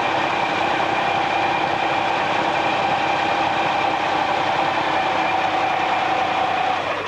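Funny car's V8 engine running at a steady speed, loud and even, then cutting off abruptly near the end.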